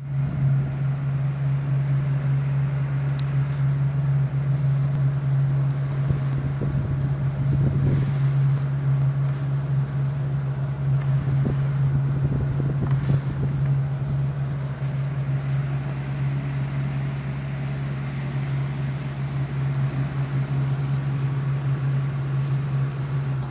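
Desert (evaporative) cooler's motor running with a steady low hum, with irregular knocks and rattles in the middle stretch.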